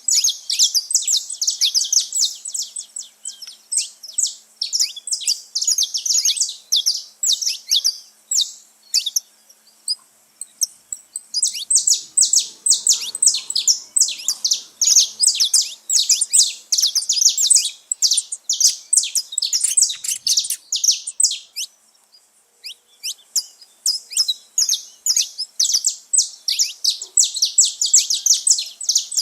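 Saffron finches chirping and singing: dense runs of rapid, high chirps that overlap, with short lulls about a third of the way in and again about three quarters through.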